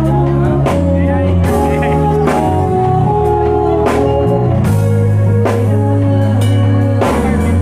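A band playing a song with bass, guitar and drum kit, the drums keeping a steady beat of roughly one hit every 0.8 seconds.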